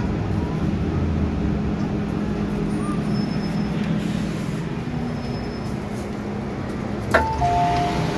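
Steady low rumble of an MTR M-Train carriage running on the Island Line. About seven seconds in, a sharp click is followed by a two-tone electronic chime alternating between two pitches.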